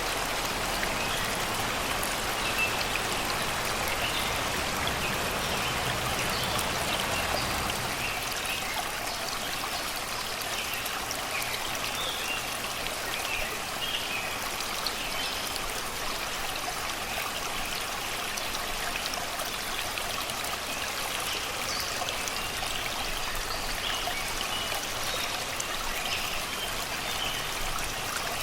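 Shallow river water babbling steadily over and around rocks and stones, with birds singing in the surrounding forest in short, scattered chirps.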